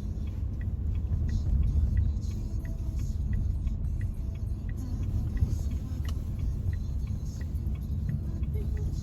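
Steady road and engine rumble inside a Renault Samsung SM3's cabin while driving, with the turn signal clicking evenly, about three ticks a second, signalling a right turn toward an exit.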